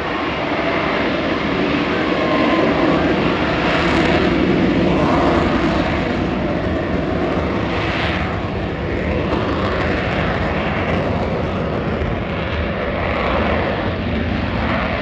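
F-35B Lightning II's jet engine (a Pratt & Whitney F135) roaring steadily, rising a little a few seconds in and then easing slightly.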